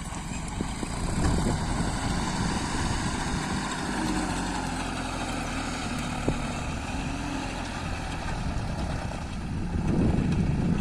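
Tractor engine running steadily, growing a little louder near the end.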